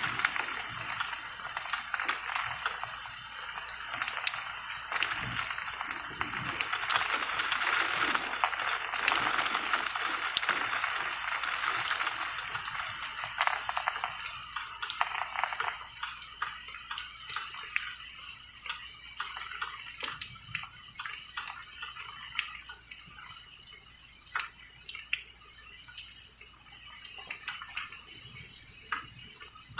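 Rain falling in a steady hiss that eases about halfway through into scattered separate drips.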